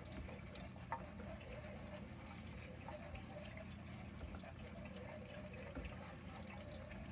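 Kitchen tap running steadily into a sink full of chicken eggs as they are rinsed, with one light knock about a second in.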